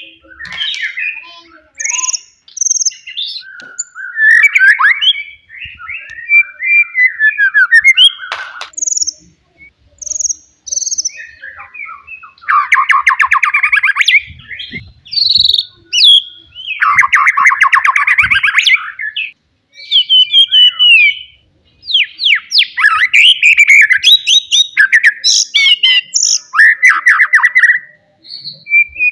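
A wild white-rumped shama singing its loud, varied song. Phrases of clear whistles and chattering notes alternate with fast, dense trills, broken by short pauses. It is the loud song meant to provoke rival males.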